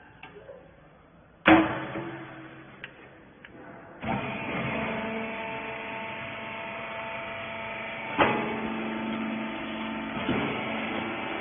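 A loud metallic clank, then about four seconds in a wiper-rag baler's hydraulic power unit starts and runs steadily with a held hum, with another sharp clank partway through.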